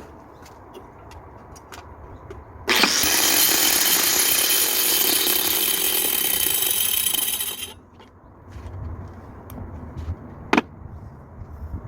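A power tool starts abruptly about three seconds in, runs steadily for about five seconds with a high whine, and stops. A single sharp knock follows near the end.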